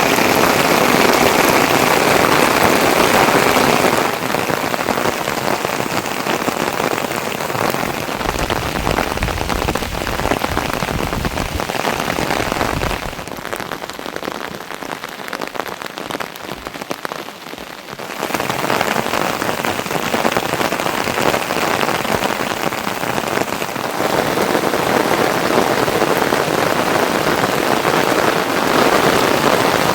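Heavy monsoon rain falling steadily, a dense hiss of drops on surfaces. It shifts in loudness a few times, thinning out for several seconds about halfway through before coming back up.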